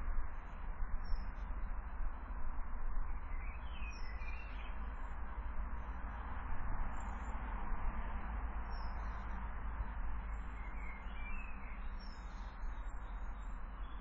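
Small birds chirping now and then, short high calls scattered through, over a steady background hiss and low rumble.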